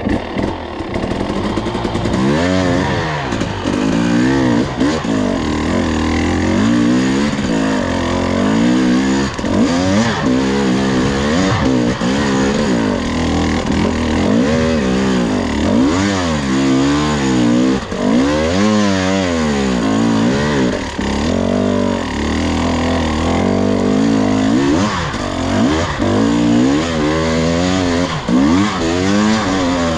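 Two-stroke enduro dirt bike engine being ridden, its revs rising and falling over and over as the throttle is opened and eased.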